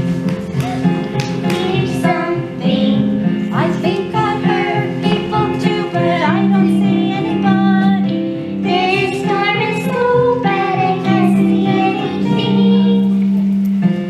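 Children's voices singing a melody from a children's opera over a recorded instrumental accompaniment.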